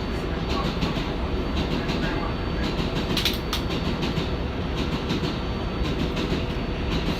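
Running noise of an R188 subway car under way: a steady rumble with the wheels clicking over rail joints, and a brighter cluster of sharp clicks about three seconds in.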